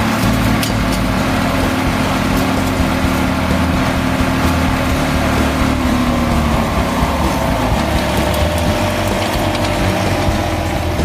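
GreenMech QuadTrak 160 tracked wood chipper running steadily, its engine hum loud and even, with a tone that sinks slightly about six to seven seconds in and scattered light clicks.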